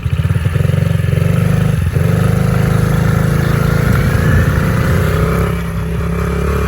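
Mini pit bike engine running under throttle while being ridden, close to the microphone. It dips briefly about two seconds in, then its pitch climbs and eases off near the end.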